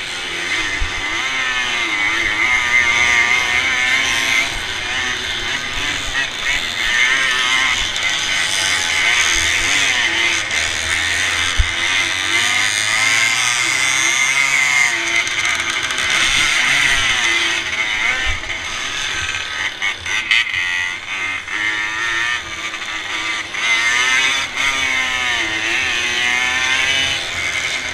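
Racing motorcycle engine heard from the rider's helmet, revs rising and falling over and over as it accelerates and backs off through the corners, with steady wind hiss on the microphone.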